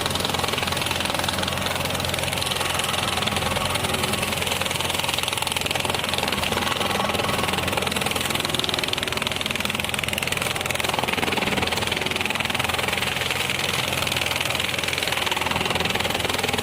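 Massey Ferguson 241 tractor's diesel engine running steadily, driving a banana shredder.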